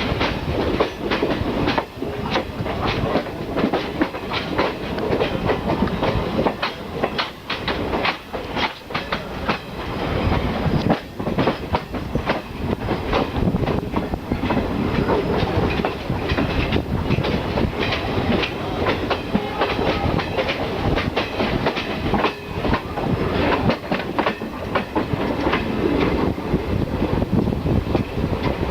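Express passenger train rolling past as it pulls out of the station. Its wheels clatter over the rail joints in a dense, irregular run of clacks above a steady rumble.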